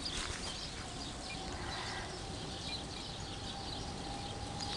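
Birds chirping over a steady outdoor background hiss, with a faint steady hum underneath.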